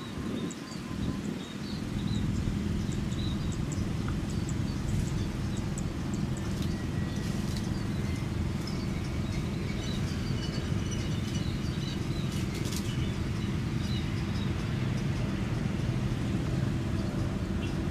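Small birds chirping in short high calls over a steady low outdoor rumble.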